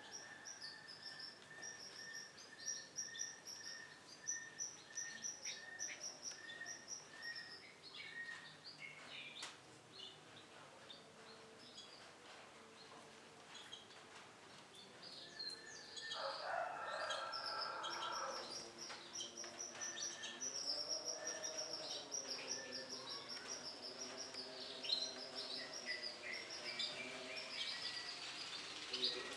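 Canaries chirping and calling in quick runs of short, high notes. The calls thin out about ten seconds in and pick up again, busier, from about sixteen seconds.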